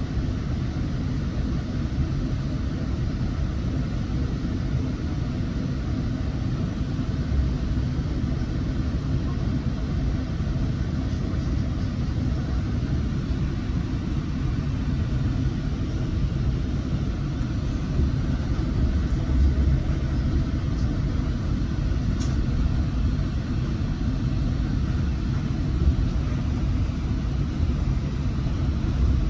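Coaster commuter train in motion, heard from inside a passenger car: a steady low rumble of the running train.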